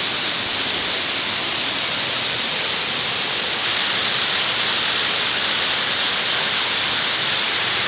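Waterfall pouring close by, a loud, steady rush of falling water.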